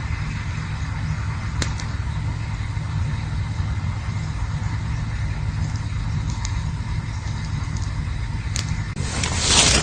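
Campfire burning with a steady low rush and a few sharp crackles. Near the end a louder hiss swells up.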